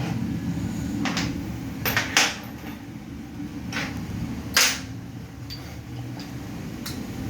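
Several sharp metallic knocks and clinks of hand tools on the metal parts of a 5R55S automatic transmission during teardown, the loudest a little after two seconds and about four and a half seconds in, over a steady low hum.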